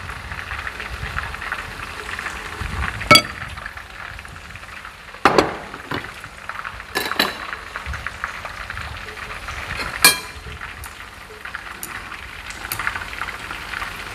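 Battered shrimp deep-frying in a pan of oil, a steady sizzle, with several sharp clinks of metal tongs and utensils against the pan and bowls, the loudest about three, five and ten seconds in.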